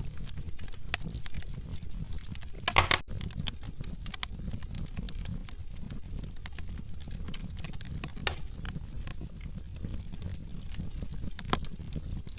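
Wood fire in a fireplace crackling and popping, with irregular sharp snaps over a steady low rumble of the flames and a louder burst of pops about three seconds in.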